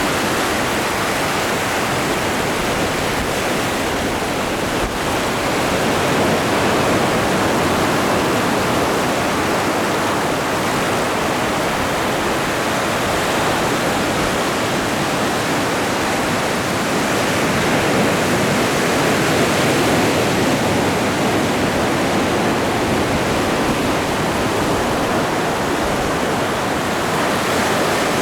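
Atlantic Ocean waves breaking and washing in a continuous dense rush, swelling a little in loudness now and then.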